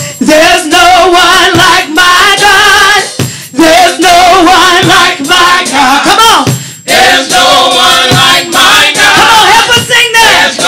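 Live gospel worship singing by a group of voices with a band, loud, with wavering held notes.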